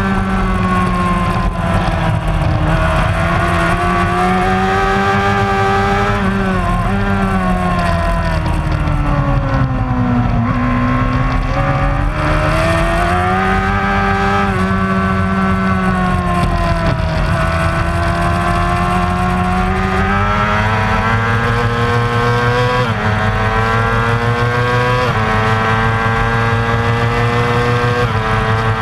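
Racing motorcycle engine running hard at high revs, its pitch falling and rising over several seconds as it brakes and accelerates, with sudden jumps in pitch during the last third, typical of gear changes.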